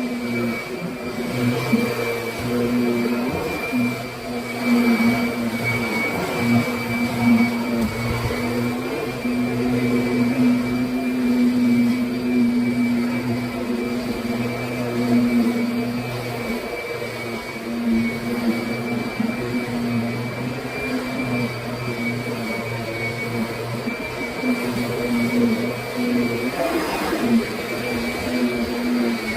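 Kirby Sentria upright vacuum cleaner running while vacuuming: a steady motor hum with a thin high whine above it, its loudness rising and falling a little.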